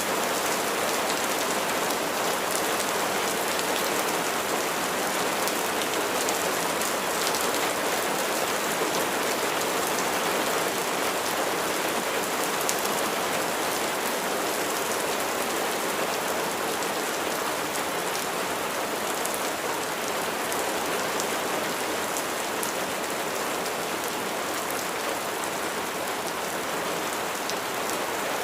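Steady rain falling, an even hiss of many raindrops with faint individual drop ticks.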